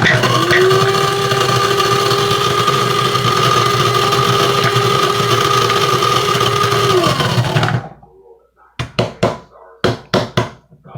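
Electric blade coffee grinder running loaded with mothballs: a loud, steady whirring whine that stops about eight seconds in. A few sharp knocks follow near the end.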